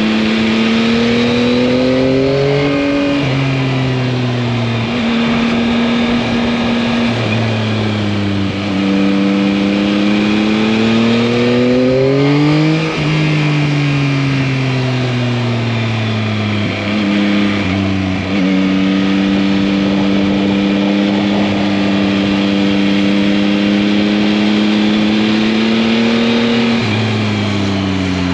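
Yamaha MT-09's 890 cc inline three-cylinder engine under way, its pitch climbing as it revs through the gears and dropping at each shift, then holding steady while cruising, with wind rushing past.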